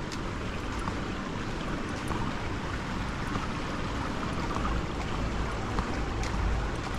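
Steady rushing outdoor noise, with a low rumble that swells in the second half.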